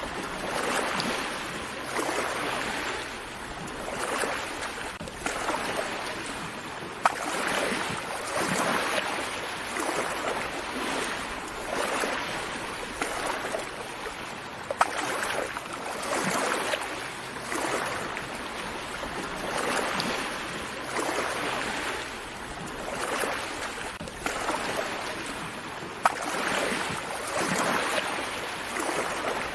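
Small sea waves washing in and out, in a steady series of short swells a second or two apart. There are a few sharp clicks, three of them across the stretch.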